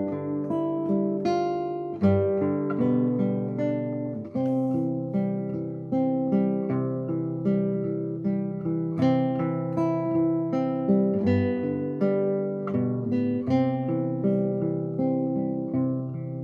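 Solo classical guitar played fingerstyle: a plucked melody over sustained bass notes, each note struck and left to ring.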